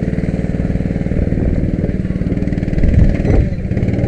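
Go-kart engine running steadily at low revs, with a brief louder surge about three seconds in.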